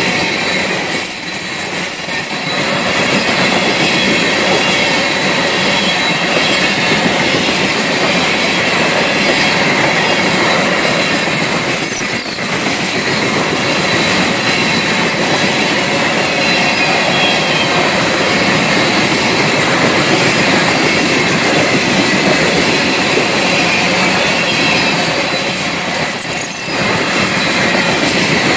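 A Florida East Coast Railway freight train's cars rolling past: steady wheel-on-rail noise from a mix of gondolas, covered hoppers and boxcars, dipping briefly three times.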